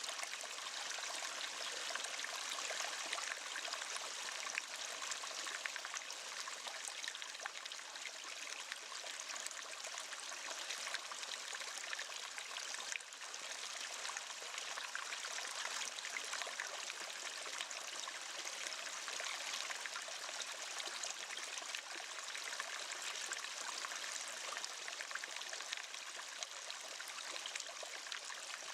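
Waterfall: water pouring and splashing in a steady, continuous rush, mostly hiss and splash with little deep rumble.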